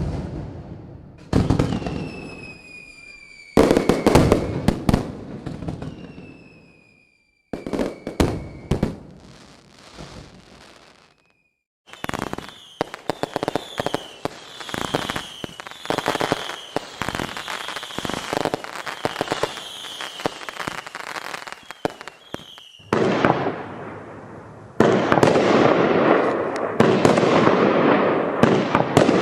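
A 25-shot, 200 g firework cake firing its shots one after another. The first shots carry whistles that fall slightly in pitch. From about twelve seconds in come quick bangs with short whistles and crackling, and from about twenty-five seconds a dense, continuous crackle.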